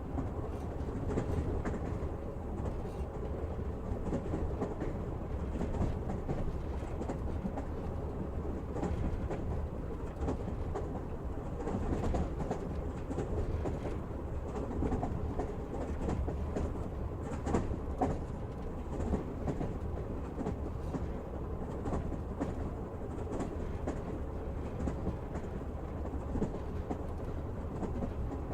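Train wheels running on the rails: a steady rumble with scattered clacks.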